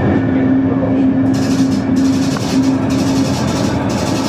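Train running, heard from inside the carriage as it pulls into a station: a steady rumble with a low steady tone that stops about three seconds in.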